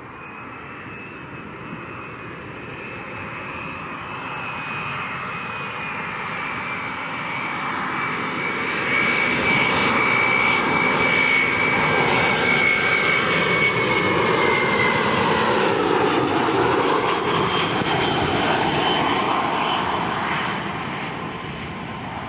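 A passing airliner's engines: the sound builds over about nine seconds to a long loud stretch, with a high whine that drifts slowly down in pitch, then fades near the end.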